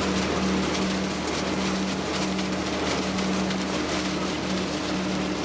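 Machine grape harvester running in the vines: a steady engine drone holding two pitches, with dense mechanical noise over it.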